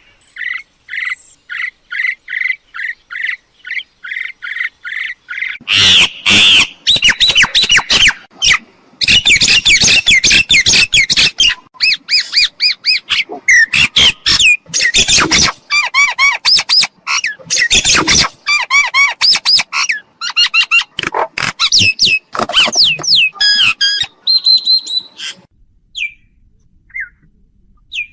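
Myna calling: a run of quick, evenly spaced notes, then loud, harsh chattering mixed with whistles and squawks that breaks off near the end into a few single notes.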